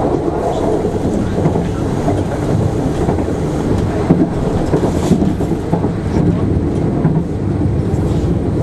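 Passenger train running at speed, heard from inside the coach: a steady rumble of wheels on rail, with a few sharp clicks about four and five seconds in.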